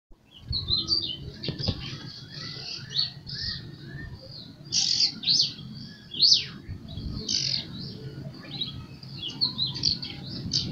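Small birds chirping and twittering: a busy, overlapping run of short high chirps and quick downward-sweeping notes, over a low background rumble.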